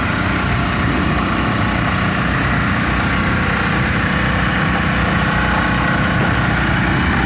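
Portable gasoline generator running steadily at an even pitch, powering a rapid charger for an electric dirt bike.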